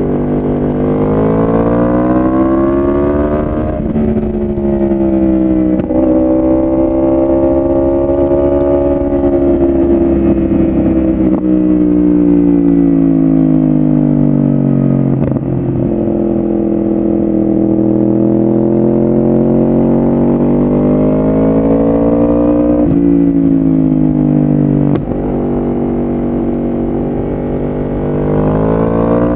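Yamaha R1 inline-four sportbike with a full aftermarket exhaust system, ridden through the gears. Engine speed climbs and falls, with several abrupt pitch jumps, the first about four seconds in, that mark gear changes.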